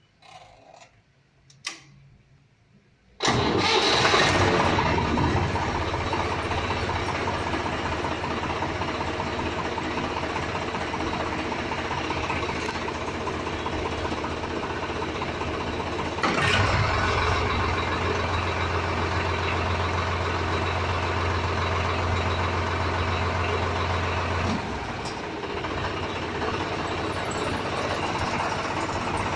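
Swaraj tractor diesel engine, with a few faint clicks before it, starting up about three seconds in and catching at once, then running steadily. For several seconds around the middle it runs louder with a heavier low note, then settles back to a steady idle.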